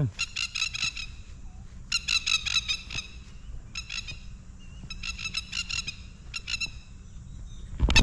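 Nesting birds defending their young with harsh, rapid staccato alarm calls, in about six short bursts as they circle and swoop overhead.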